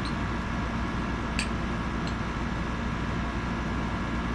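Steady background hum of room noise, with one small click about a second and a half in.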